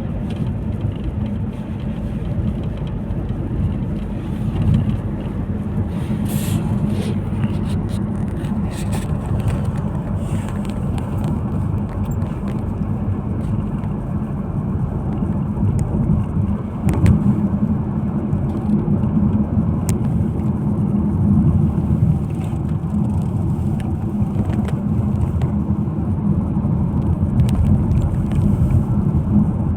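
Steady low rumble of a moving car, with a few faint light clicks.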